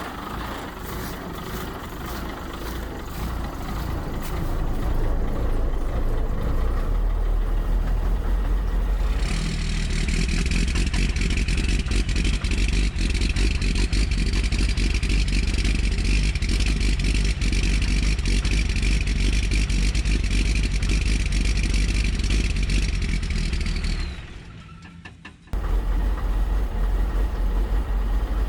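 12-valve Cummins 6BT inline-six diesel running just after a cold start at 7 °F, still settling into its idle. About nine seconds in it gets louder and brighter. Near the end the sound drops away for about a second and a half, then resumes.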